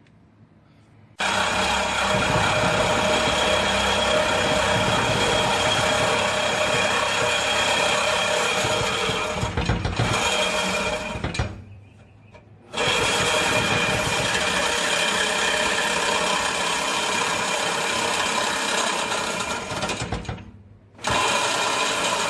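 Angle grinder cutting through a steel exhaust pipe, running steadily in three long runs with short pauses about eleven and twenty seconds in.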